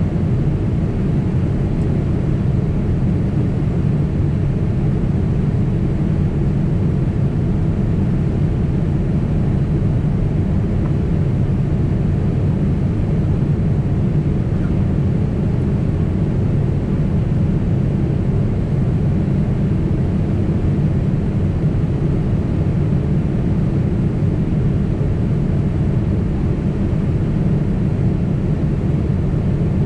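Cabin noise of a Boeing 767 jetliner in flight: the steady low drone of the engines and rushing air, unchanging throughout.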